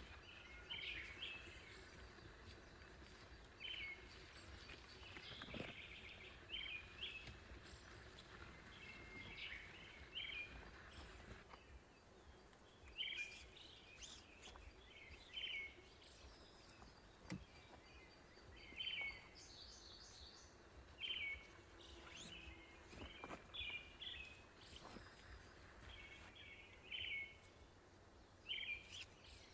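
Faint bird calls outdoors: short chirping notes repeated every second or two, over a steady low rumble.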